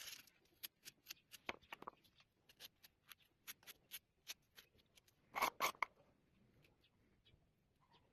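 A run of irregular light clicks and taps from small objects being handled, with a louder cluster of clicks about five and a half seconds in.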